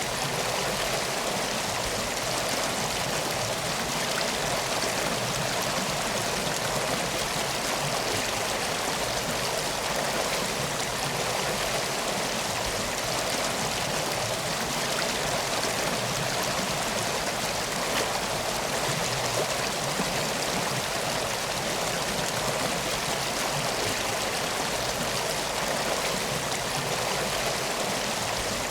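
Steady, even rush of flowing river water, with no pauses or changes.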